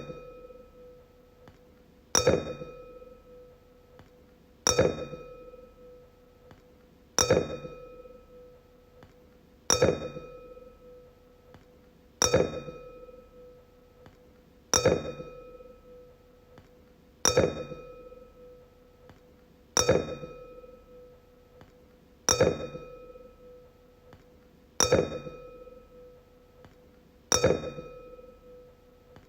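A wine glass struck over and over, each sharp clink followed by a clear ring that fades over about a second. The strikes come evenly about every two and a half seconds, about eleven of them, all at the same pitch.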